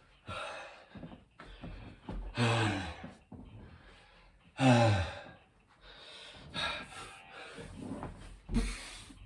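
A man's hard breathing during burpees: heavy gasps and sighing exhales, with two loud groans about two and a half and almost five seconds in whose pitch slides down. A few dull low thuds come between the breaths.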